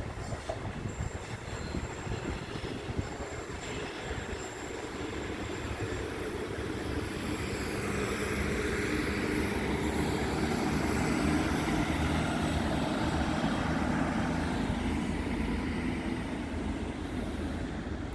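Train moving along the track at the station, its noise swelling to the loudest point about halfway through and then easing off, with a steady low hum underneath.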